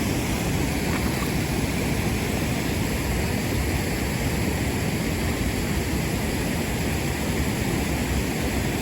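Floodwater rushing steadily over and through a culvert crossing, with a whirlpool churning upstream of it.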